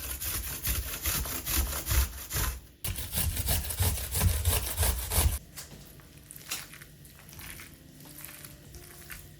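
Quick, dense run of repeated food-preparation strokes, with a brief pause near three seconds, stopping about five and a half seconds in. Soft background music continues after.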